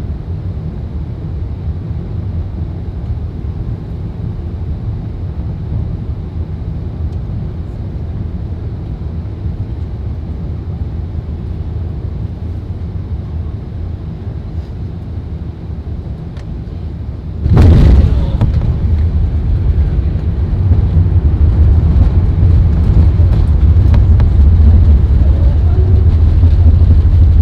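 Airbus A380 cabin noise on final approach, a steady low roar; about two-thirds of the way through, a sudden loud jolt as the main wheels touch down, followed by a louder, rougher rumble as the aircraft rolls out and decelerates on the runway.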